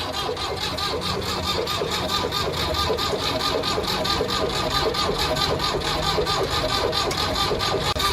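Fiat 480 tractor's diesel engine running steadily at a regular beat, freshly rebuilt.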